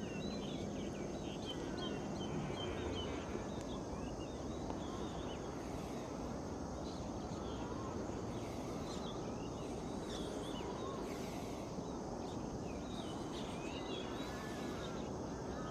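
Birds chirping and calling, many short chirps all through, over a steady low background rumble of outdoor noise.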